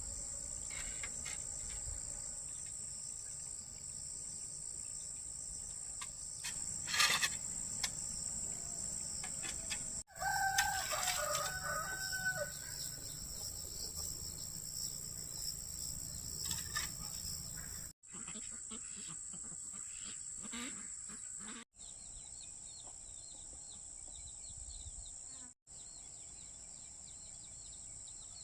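A rooster crows once, about ten seconds in, over a steady high-pitched drone of insects. The background cuts off abruptly several times.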